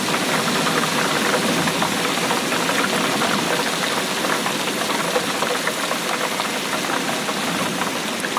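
Steady rainfall, a dense patter of many small drops hitting a surface.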